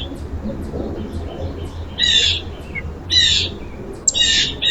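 Songbirds calling: three short calls about a second apart, with faint high chips between them, over a low steady rumble.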